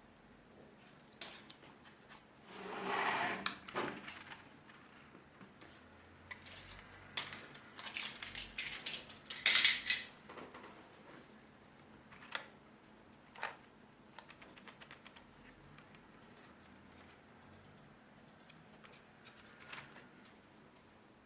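Irregular handling noises: sharp plastic clicks and clacks with a short scraping rustle, including a busy cluster of clatter around the middle, then only a few scattered ticks.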